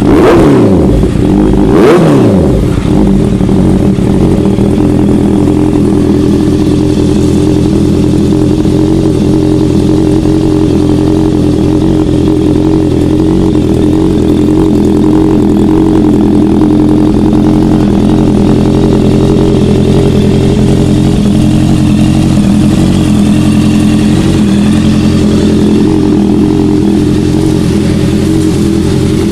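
Honda CBR650F's inline-four engine through an aftermarket exhaust, blipped briefly in the first two seconds, the revs falling back, then idling steadily.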